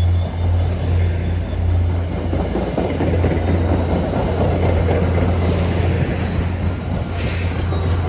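A commuter train running past on the rails, a steady low rumble with wheel and rail noise that thickens partway through.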